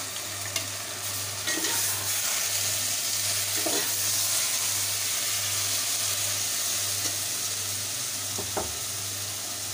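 Onions with a freshly added paste of tomato, garlic, ginger and green chillies sizzling in hot oil in a metal pot, the sizzle growing louder about a second and a half in. A metal ladle stirs and scrapes against the pot, with a few sharp clicks.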